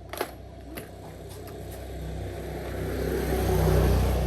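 A motor vehicle's engine running, growing steadily louder over about three seconds and loudest near the end, with a sharp click just after the start.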